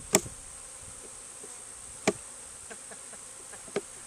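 Honeybee swarm buzzing steadily, broken by three sharp knocks: one right at the start (the loudest), one about halfway and one near the end.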